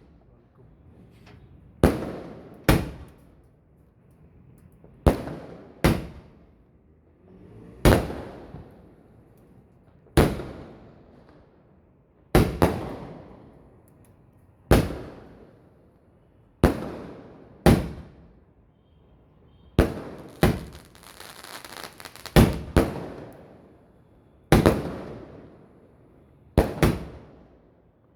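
Multi-shot aerial fireworks cake firing, a sharp bang about every one to two seconds, each trailing off in a fading echo. A fizzing crackle sounds briefly about twenty seconds in.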